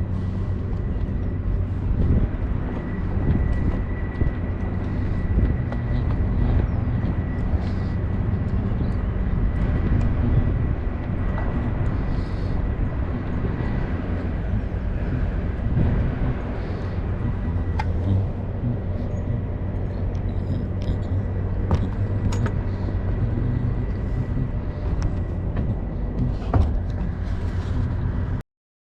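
An engine running steadily, a continuous low hum with scattered light clicks, cutting off suddenly near the end.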